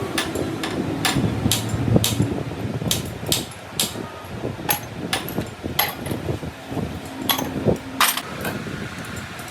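Irregular hammer blows in a truck-engine workshop, about fifteen sharp strikes over several seconds, with a steady low hum coming and going underneath.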